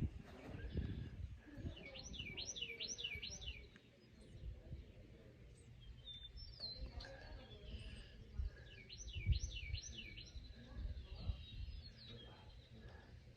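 A songbird singing a quick run of four or five looping high notes, twice, with other faint chirps between, over a low rumble of wind or handling on the microphone.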